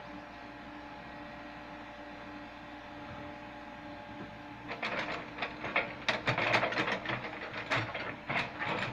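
Komatsu PC70 excavator's diesel engine running steadily. About halfway through, a loud, irregular clattering of the machine working starts and runs on in quick strokes until just before the end.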